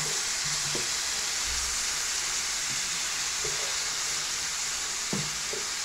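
Diced chicken breast and chopped onion sizzling steadily in melted margarine in an electric skillet while being stirred with a spatula, with a light knock near the end.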